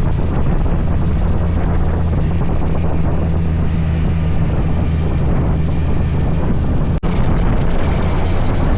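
Motorcycle engine running at a steady cruise, buried under heavy wind noise on the microphone. About seven seconds in the sound drops out for an instant and resumes with a slightly different engine note.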